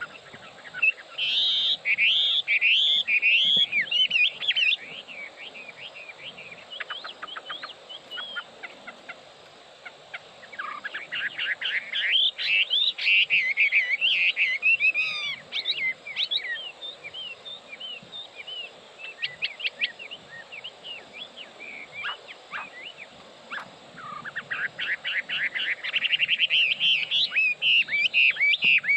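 Chinese hwamei singing: long, varied phrases of rapid whistled notes that slide up and down. Three loud bouts of song, near the start, in the middle and near the end, with scattered quieter notes between them.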